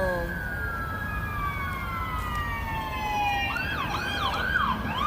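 Emergency vehicle siren going by. A long, slowly falling wail switches near the end to a few fast up-and-down yelps, over low traffic rumble.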